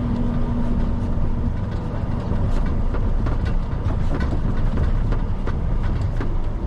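Steady low rumble of a 5-ton truck's engine and road noise, heard from inside the cab while driving at speed, with scattered light rattles and clicks.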